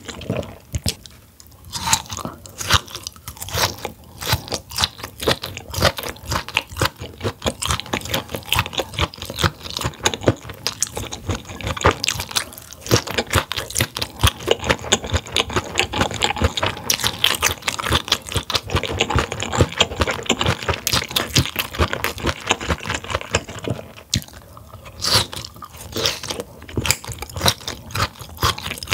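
Close-miked chewing of grilled mullet gizzard: a dense run of crunches and clicks, with brief lulls about a second in and near the end.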